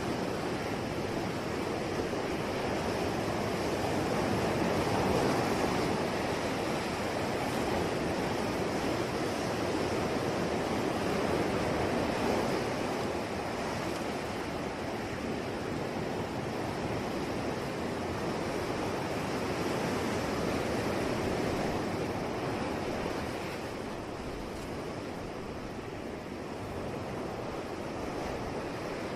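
Sea waves washing ashore in a continuous surf, swelling and easing slowly over several seconds.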